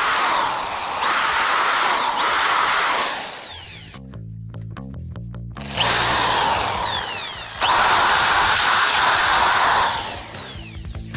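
Small handheld power tool, such as a drill, whirring in two runs of a few seconds each with a pause between, its pitch sliding down within each run.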